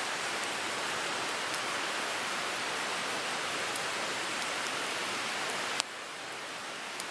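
Wood fire burning in a Picogrill 398 portable fire pit: a steady hiss with scattered small crackles, and one sharp pop a little before the end, after which the hiss is slightly quieter.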